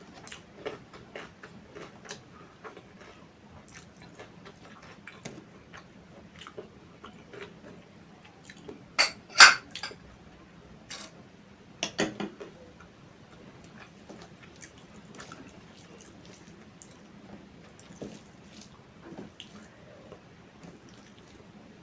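Close-miked wet chewing and mouth sounds of a person eating, many small clicks and smacks, with two louder sharp knocks about nine and twelve seconds in.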